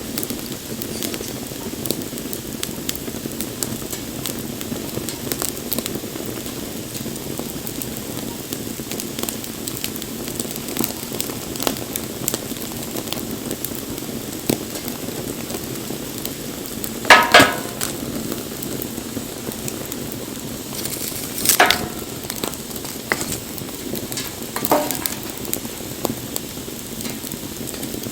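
Wood campfire burning with a steady low rush and hiss, peppered with small crackles. Three louder pops stand out in the second half.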